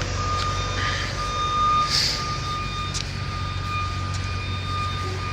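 Backup alarm on a reversing heavy vehicle, beeping in a high tone over the steady low running of its engine.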